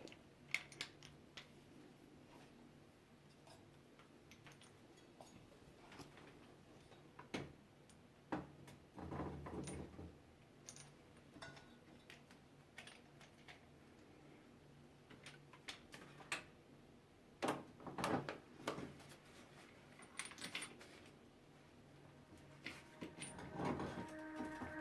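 Scattered faint metallic clinks and knocks, with a few busier clusters of handling noise, as a TSDZ2 mid-drive motor is test-fitted against a bicycle's bottom bracket.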